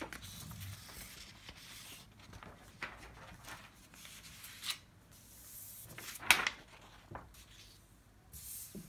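Faint rustling and rubbing with a few soft knocks, the loudest about six seconds in.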